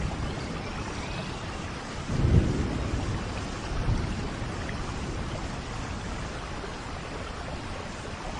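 Steady rain falling in a forest, an even hiss, with a low rumble swelling about two seconds in and a smaller one near four seconds.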